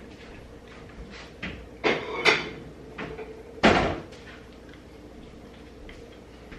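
Kitchen cupboard door being opened and shut: a few knocks and bumps, the loudest about two seconds in and again near four seconds.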